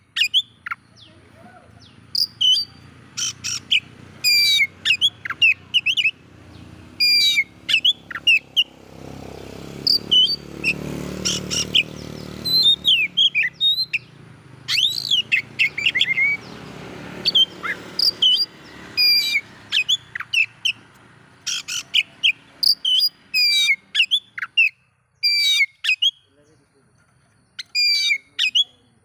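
Oriental magpie-robin (kacer) singing in short, sharp chirping and whistled phrases, coming in quick clusters throughout. A low background rumble swells and fades in the middle.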